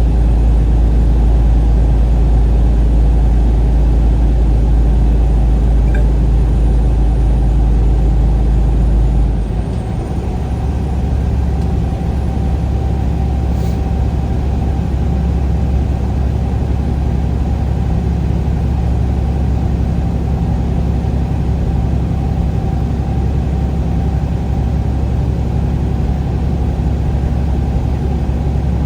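A vehicle on the road: steady engine and road drone. About a third of the way in, the drone drops lower and gets slightly quieter, then holds steady.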